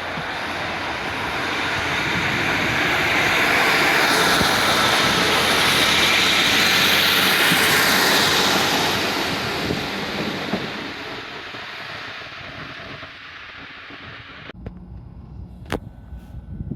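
A train passing at speed: a loud rush with a low rumble that builds, peaks in the middle and fades away as it goes by.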